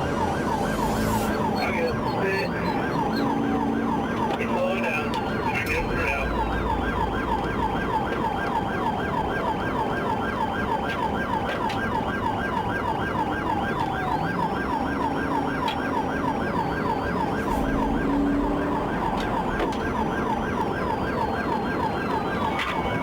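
Police car siren sounding a fast, rapidly repeating yelp throughout, over the rumble of the patrol car driving in pursuit.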